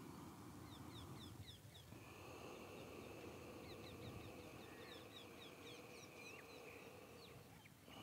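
Faint birdsong: many small birds giving quick, short chirps over low background noise. A steady high tone sets in about two seconds in and runs on with them.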